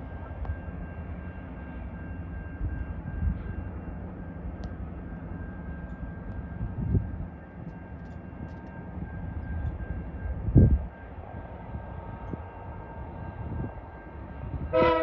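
Distant diesel freight train approaching with a steady low rumble, with a few short low thumps partway through. Just before the end the lead locomotive's air horn begins to sound, a chord of several notes.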